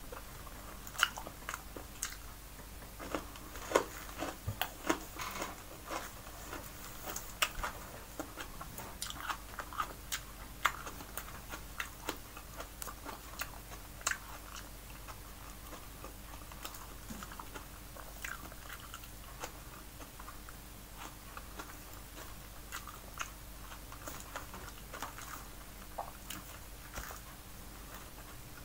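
A person chewing and smacking their lips while eating steamed fish with their fingers: a run of small clicks and smacks, busier in the first half and sparser later.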